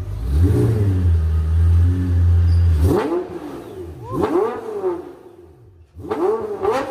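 Performance car exhaust: a deep, steady low rumble for about three seconds, then two quick throttle blips that each rise and fall sharply before dying away. After an abrupt cut about six seconds in, a fresh run of rapid revs begins.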